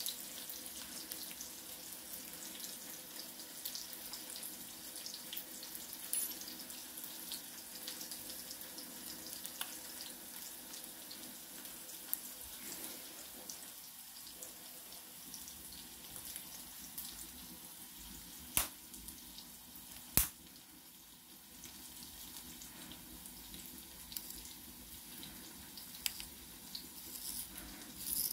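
Chopped onion frying in oil in a pot: a steady, fairly quiet sizzle full of fine crackles. Two sharp clicks come close together about two-thirds of the way through.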